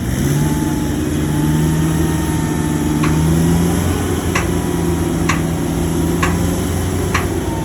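Shantui bulldozer's diesel engine running steadily under load, with a thin high whine above it. From about three seconds in comes a sharp click roughly once a second.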